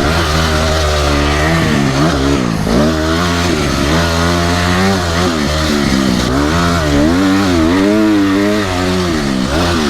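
Honda CRF250R dirt bike's single-cylinder four-stroke engine revving up and down as it is ridden hard through sand, its pitch rising and falling again and again with the throttle and gear changes.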